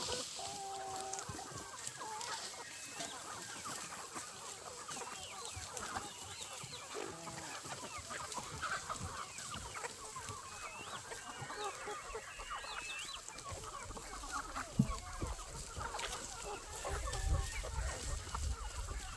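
A large flock of chickens clucking and calling, many birds overlapping at once. There is a single sharp knock about three-quarters of the way through, and a low rumble joins in near the end.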